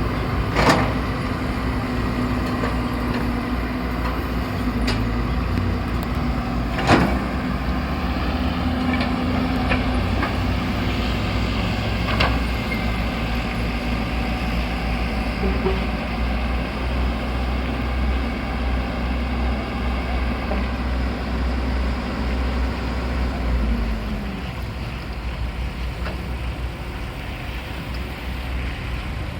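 Excavator diesel engine running steadily under work, with two loud sharp knocks, one near the start and one about seven seconds in, and a few fainter ones later. About 24 seconds in the engine note falls and it runs quieter.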